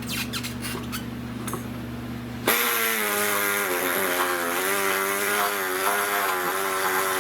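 A small high-speed rotary tool starts about two and a half seconds in and cuts into a plastic taillight lens along a crack, its pitch wavering as it bites under load. Before it, a steady low hum with a few light clicks.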